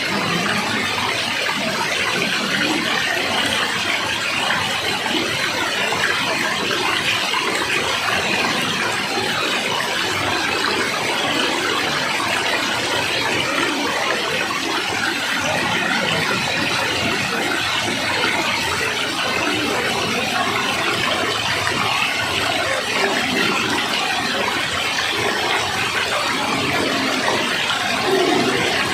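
Steady rushing water, an even unbroken hiss with no change in level.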